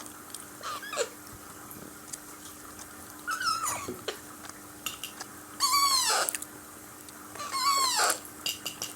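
Hungry 13-day-old Alexandrine parakeet chicks giving begging calls while waiting to be hand-fed: a few short squeaks, then three loud calls about two seconds apart, each rising then falling in pitch.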